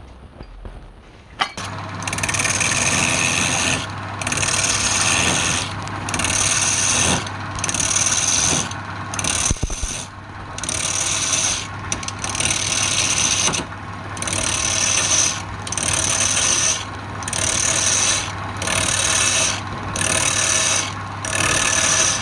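A wood lathe's motor starts humming steadily about a second and a half in. A turning tool then works the spinning wood in repeated loud scraping passes, about one every one and a half seconds, with short breaks between them.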